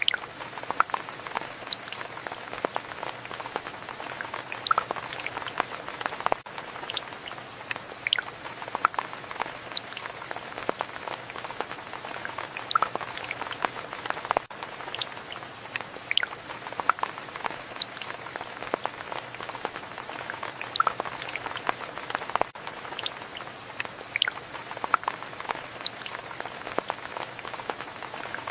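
Steady rain falling, with many separate drops ticking and splashing close by. The same few seconds of rain repeat about every eight seconds, with a brief dip at each join.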